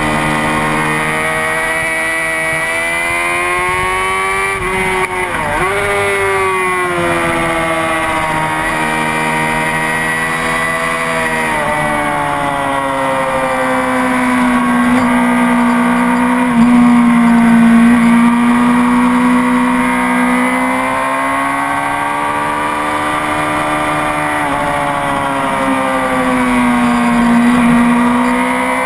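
Honda CBR600RR's inline-four engine running hard at high revs on track. Its pitch rises and falls with the throttle and gear changes, with a sharp dip about five seconds in.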